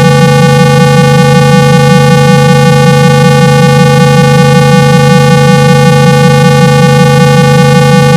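A loud, steady 165 Hz tone with a buzzy stack of overtones and a slight regular pulse. It is the low test tone played to shake water out of a phone's speaker and free up its sound.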